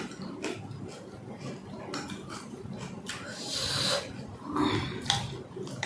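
Close-miked eating of panipuri: crisp shells crunching and chewing with wet mouth noises, in irregular clicks and short bursts, the longest about three seconds in.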